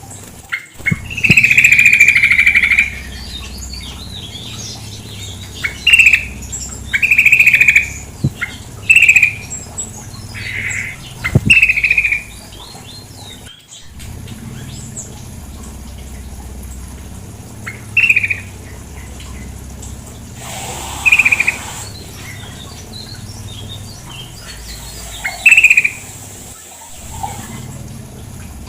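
Female yellow-vented bulbul (trucukan) calling: short, bright chattering phrases repeated at irregular intervals, about ten in all, over a steady background of running water.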